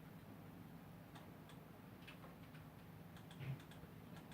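Faint, irregular clicking of computer controls over a low steady hum, with a short low thump about three and a half seconds in.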